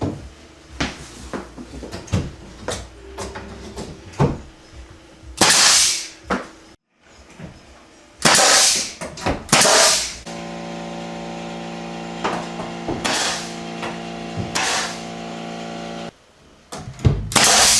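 Carpentry work on wood: scattered hammer taps and knocks, several loud hissing bursts of about half a second to a second each, and a steady hum for about six seconds in the second half.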